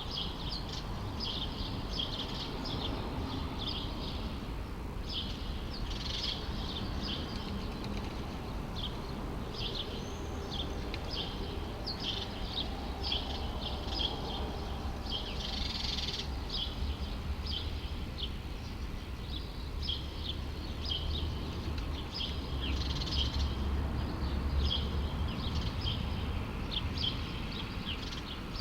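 Small birds chirping over and over in short, quick notes, over a steady low city rumble.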